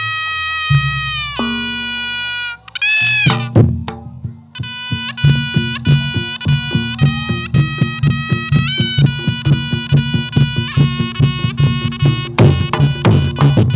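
Live reog jathilan music: a reedy shawm-like wind instrument holds long notes and slides in pitch over a deep drone. About three and a half seconds in, a fast, steady drum rhythm joins the melody.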